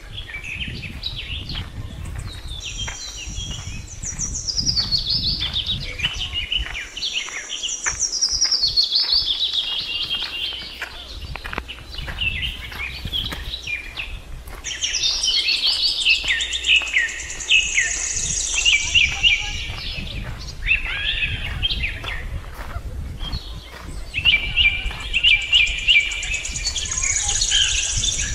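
Birds singing and calling, with quick runs of falling chirps repeated again and again, over a steady low rumble.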